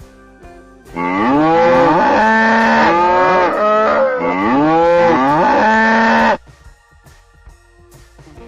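A large farm animal calling loudly for about five seconds in several repeated rising cycles, each dropping to a steady low note, cut off sharply. Light guitar music plays underneath.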